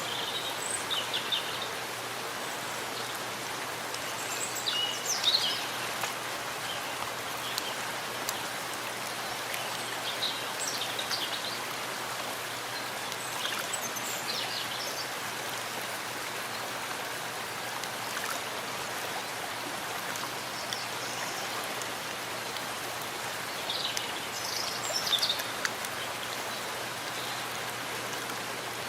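Steady rain falling in a forest, an even hiss, with short high chirps, perhaps birds, now and then, loudest about five seconds in and again near the end.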